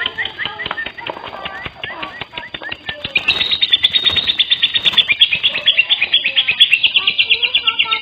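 Lovebird singing: scattered high chirps and short rising notes, then from about three seconds in a fast, even chattering trill of roughly ten chirps a second.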